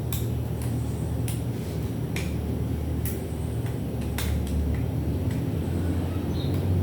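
Sharp clicks and taps from the parts of a Philips stereo being handled and pried apart, roughly one a second, over a steady low rumble.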